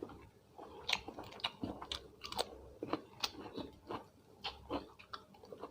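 A person chewing crunchy food close to the microphone, with irregular crisp crunches and mouth clicks several times a second.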